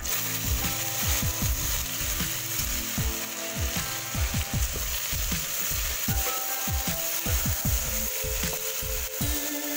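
Chopped tomatoes and green peppers landing in hot oil with fried silver fish in an aluminium saucepan, setting off a steady sizzle. A wooden spoon stirs and knocks against the pot through the frying.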